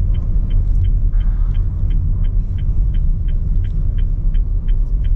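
Steady low rumble of a car running, with a light, even ticking about three times a second.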